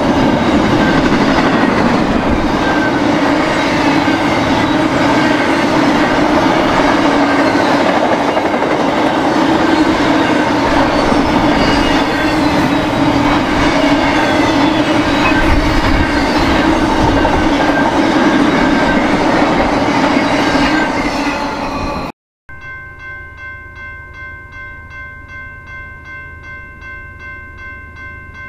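BNSF freight train rolling past at close range: a steady loud rumble and clatter of wheels on rail. It cuts off abruptly about 22 seconds in and gives way to a quieter steady chord of tones.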